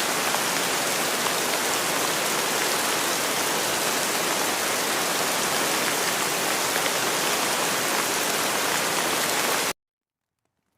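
Steady, dense rain falling, an even hiss with fine patter of drops. It cuts off suddenly near the end into silence.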